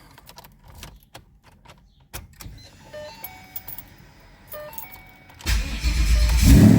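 Keys and small clicks, then a few short electronic beeps, before the twin-turbo Coyote 5.0 V8 of a 2014 Mustang GT cranks and fires about five and a half seconds in, settling into a loud, lumpy idle.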